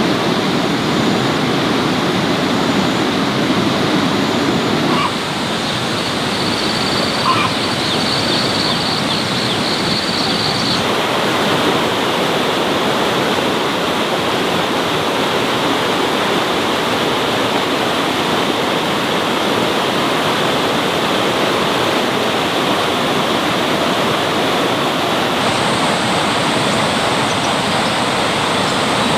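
Heavy rain pouring down steadily, a dense unbroken rushing hiss.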